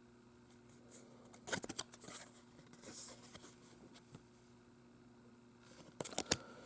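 Baseball trading cards being handled and flipped through: soft cardboard slides and light clicks in short clusters, about a second and a half in, around three seconds, and again near the end.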